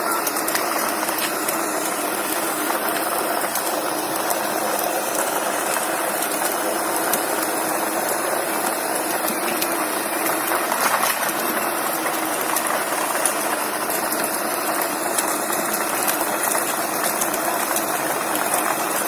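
A machine running steadily, with dense rapid clicking throughout, like gears or a geared motor working under load.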